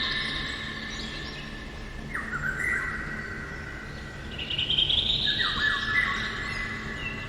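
Eurasian golden oriole singing: whistled phrases repeated every few seconds, some topped by a quick high trill.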